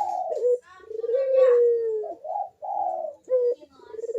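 Puter (Barbary dove) cooing steadily in repeated phrases: long drawn coos that slide down in pitch at the end, alternating with shorter coo notes.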